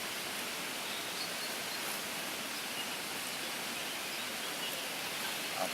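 Steady outdoor background hiss with no single clear source.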